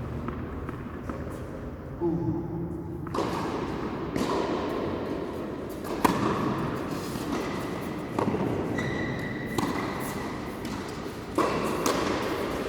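Tennis balls being struck by rackets and bouncing on the court during a rally: sharp knocks every one to two seconds.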